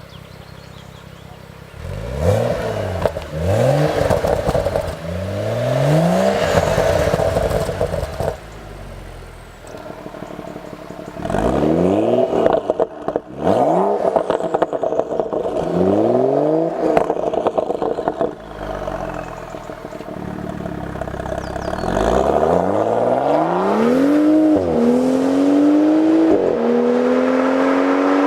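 BMW M135i turbocharged straight-six exhaust through a Baq active rear silencer, revved several times from idle, each time rising and falling back, with short stretches of idle between. Near the end there is a longer pull: the revs climb steadily, dip sharply twice and keep climbing, like upshifts under acceleration.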